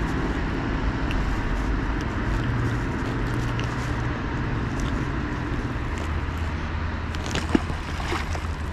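A steady low engine rumble with a background hiss, and a single sharp click about seven and a half seconds in.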